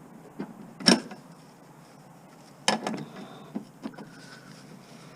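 A few sharp knocks and clatters from things being handled. The loudest is about a second in, then a short cluster near three seconds, with a couple of lighter taps after it.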